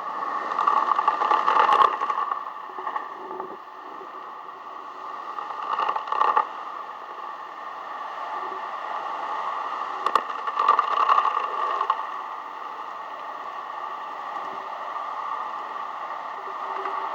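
Storm wind blowing hard in gusts: a steady rushing noise that swells three times.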